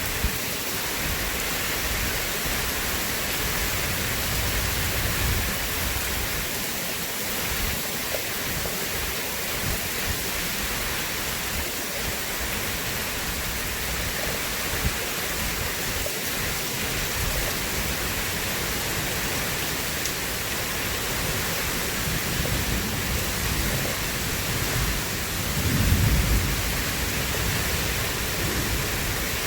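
Steady rain hiss with low rolls of thunder: a rumble about four seconds in and a louder one near the end.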